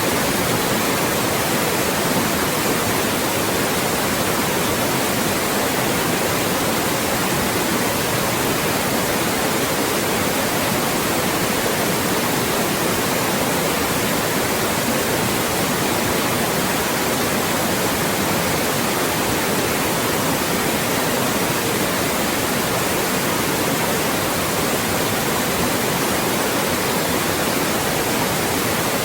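Steady, loud synthetic white noise: an even hiss across the whole range, unchanging throughout.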